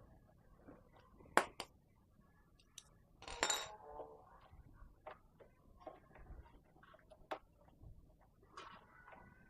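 Metal hand tools clicking and clinking against a motorcycle exhaust while its rusty rear mounting bolt is undone with a 12 mm wrench. There is a sharp click about a second and a half in, a louder clatter of metal at about three and a half seconds, and scattered smaller clicks.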